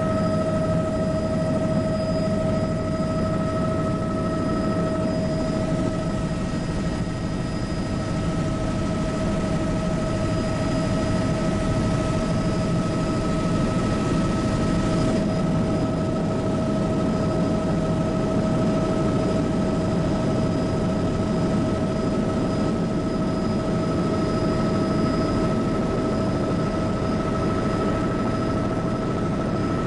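Bell 206B helicopter in cruise flight, heard from on board: a steady deep rotor and engine rumble with a constant high turbine whine over it.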